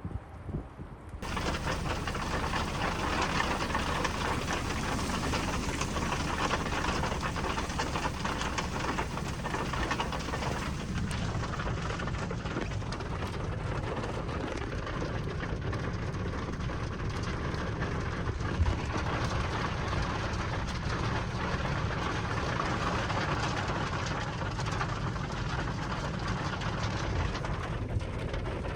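Hail pelting the roof and body of a car, heard from inside: a dense, steady clatter of countless small hits that starts abruptly about a second in.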